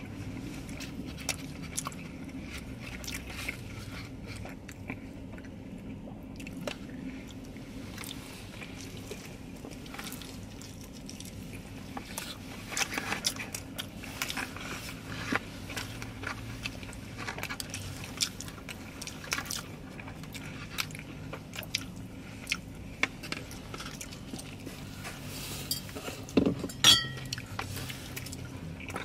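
Close-up eating sounds: two people chewing and biting into tacos, quesadilla and loaded fries, with small crunches and scattered clicks of takeout containers, over a steady low hum inside the car cabin. A louder sharp clatter comes near the end.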